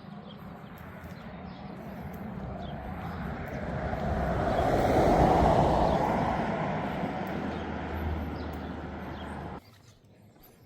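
A motor vehicle driving past, its engine and tyre noise swelling to loudest about halfway through and then fading; the sound cuts off suddenly near the end.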